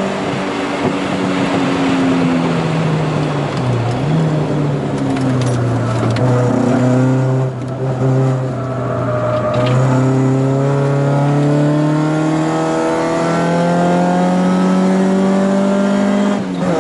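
Four-cylinder engine of a 1980 VW Scirocco Mk1 GT heard from inside the cabin while lapping a race track. The revs fall for the first few seconds, pick up briefly, then climb slowly with a short lift around the middle, and drop suddenly near the end as it shifts up a gear.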